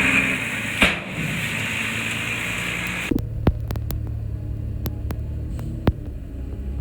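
Heavy-equipment diesel engine running loudly with a sharp knock about a second in, then, after an abrupt change about three seconds in, a steady low throbbing hum with scattered sharp clicks and knocks.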